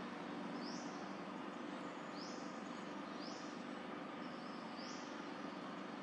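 A bird calling off-picture: short, high, rising chirps about once a second, over a steady background hum.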